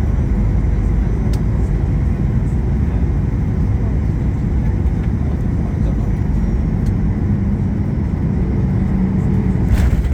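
Aircraft landing: a steady low rumble at an even level, with a short louder burst of noise near the end.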